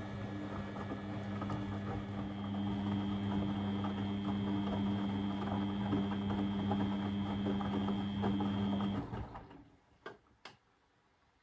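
Beko washing machine running with a steady hum and rattle that cuts out about nine seconds in, followed by two short clicks.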